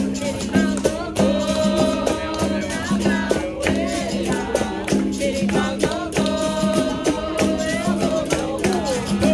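Capoeira roda music: voices singing over berimbau and pandeiro, with a rattling caxixi and regular percussive strikes keeping a steady rhythm.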